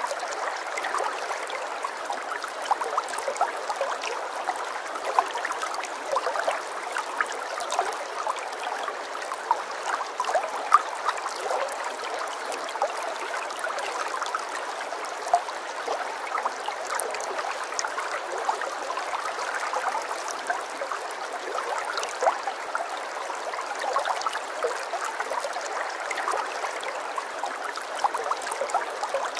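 Running water trickling and gurgling steadily, with a dense patter of small splashes.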